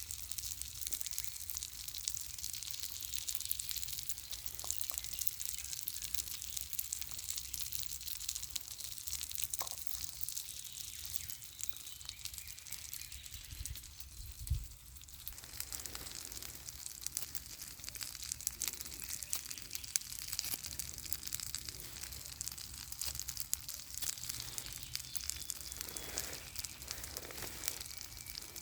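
Campfire crackling steadily in the rain, with one soft thump about halfway through.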